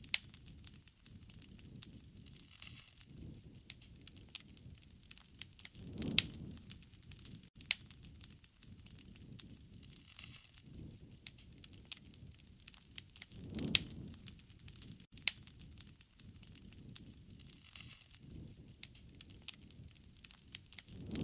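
Wood fire crackling, with frequent sharp snaps and pops and a soft low whoosh of the flames swelling about every seven and a half seconds.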